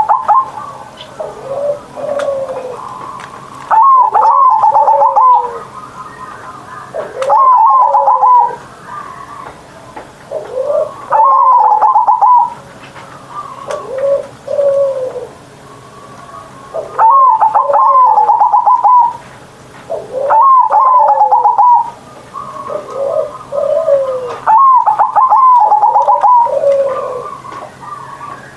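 Zebra dove (perkutut) singing its cooing song: loud phrases, each opening with a quick stutter of notes and ending in rolling coos, repeated about six times every three to four seconds, with softer, lower coos in between.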